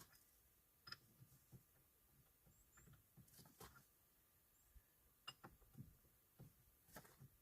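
Near silence broken by scattered faint clicks and light knocks, with a couple of tiny high chirps about two and a half seconds in.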